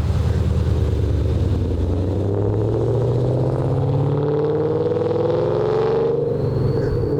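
Car engine accelerating hard, its note climbing steadily for several seconds, then dipping once near the end and climbing again.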